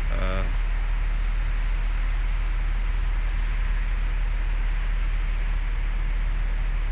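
Steady low rumble with a fainter hiss, unchanging throughout.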